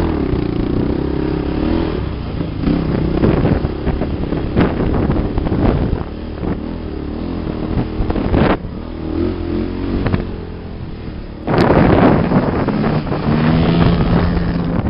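Off-road sand vehicle engine revving up and down as it rides over the dunes, with wind rushing over the microphone. It surges louder about two-thirds of the way through.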